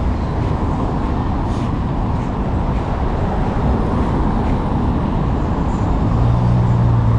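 Steady outdoor traffic noise. About six seconds in, a vehicle's engine hum joins it and the sound grows a little louder.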